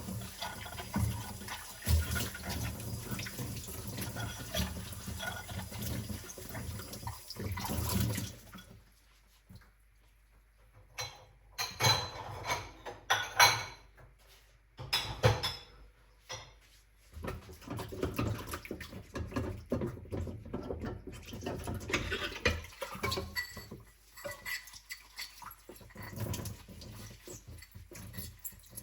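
Kitchen tap running into a sink, turned off about eight seconds in. Then dishes knocking and clinking as they are washed by hand.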